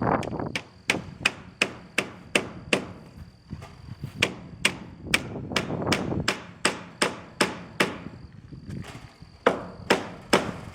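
Hammer blows in steady runs of about three strikes a second, with two short breaks, on metal siding being fastened to a pole barn.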